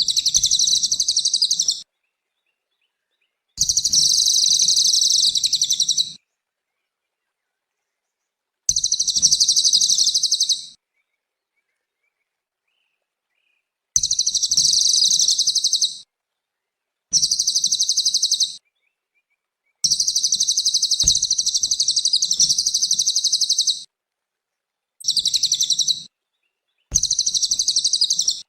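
Cililin bird singing in about eight bouts of rapid, high trilling song, each one to four seconds long, separated by silent gaps.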